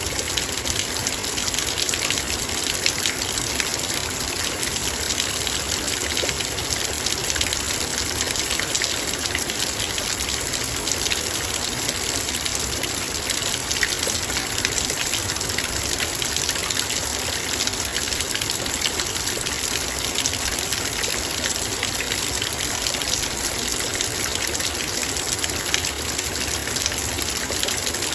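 Heavy rain falling on a metal bowl: a dense, steady pattering of countless drops striking the metal, merging into an even rushing noise.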